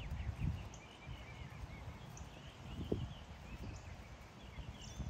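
Outdoor ambience: small birds chirping in short repeated phrases over a low, uneven rumble, with a soft thump about three seconds in.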